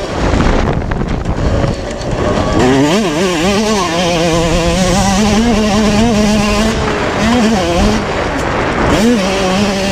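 Yamaha YZ125 single-cylinder two-stroke motocross engine running at high revs, its pitch dipping and climbing again a few times.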